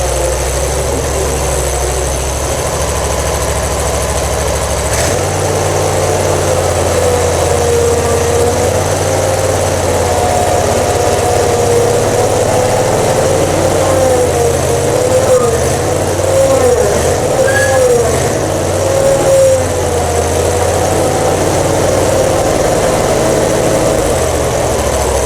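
A steady mechanical drone like an engine running, with a tone that wavers slowly up and down in pitch.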